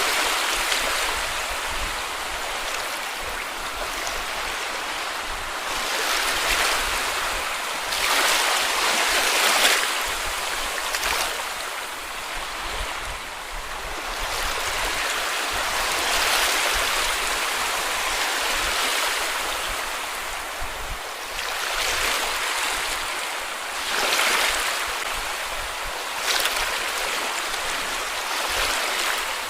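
Small sea waves breaking and washing up on a beach, with a fresh wash surging in every two to three seconds over a constant hiss of water.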